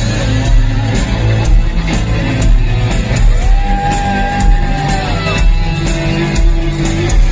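Rock band playing, with drums, bass and electric guitar. One long held note sounds from about three to five seconds in.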